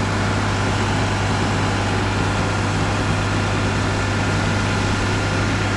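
A truck engine idling steadily, with an even low hum.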